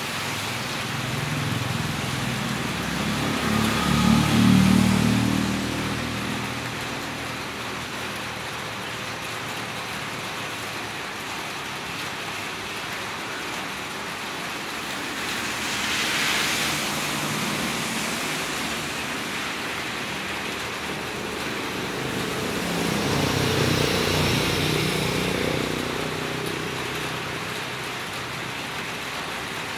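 Steady rain falling on a village street, with motor vehicles passing on the wet road: one engine swells and fades about four seconds in, a tyre hiss rises and falls near the middle, and another engine passes in the last third.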